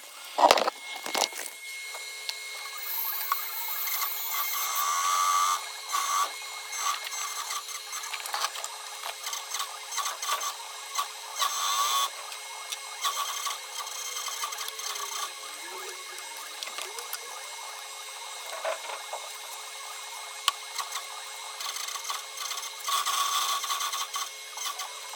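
Irregular scraping and rubbing of hand work on material, with a faint steady hum underneath.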